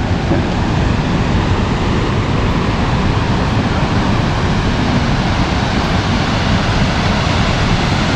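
Waterfall roaring: a steady, loud rush of falling water with no breaks.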